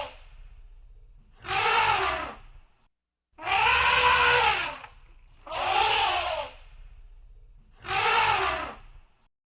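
Elephant trumpeting: a loud, pitched call roughly every two seconds, each about a second long, rising and then falling in pitch.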